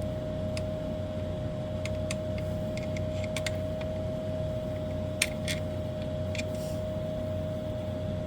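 Scattered small metallic clicks and taps of a hand tool tightening the mounting nut of a replacement B500k dimmer potentiometer, over a steady electrical hum.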